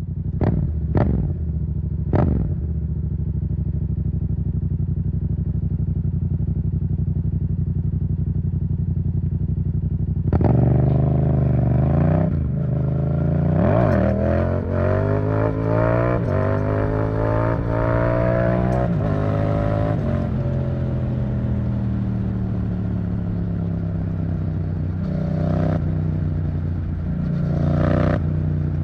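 Yamaha MT-07's parallel-twin engine through an Arrow Thunder titanium exhaust, idling with a few quick throttle blips in the first seconds. About ten seconds in it revs up, its pitch climbing for several seconds before settling into steadier running, with two more short blips near the end.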